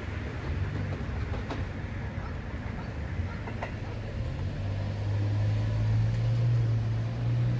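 Electric commuter train running at the platform, a steady low hum that swells louder over the second half, with a couple of faint clicks.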